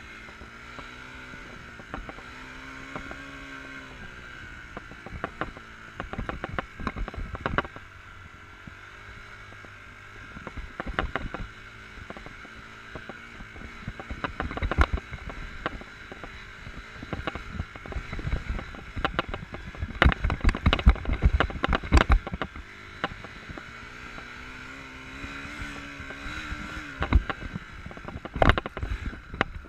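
Enduro motorcycle engine running at low revs, its pitch rising and falling as the throttle is worked. Frequent sharp knocks and clatter, thickest in the middle stretch and near the end.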